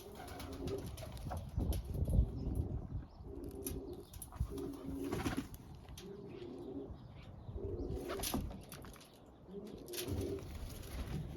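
Pigeon cooing: a short, low phrase repeated about seven times with pauses between, and a few sharp knocks in between the coos.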